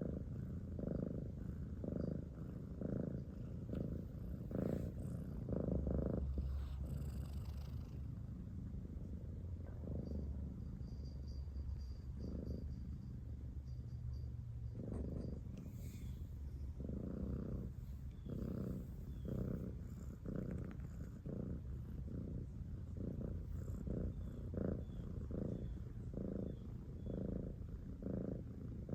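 Domestic cat purring: a continuous low rumble that swells in a rhythm, roughly twice a second, with the cat's breathing.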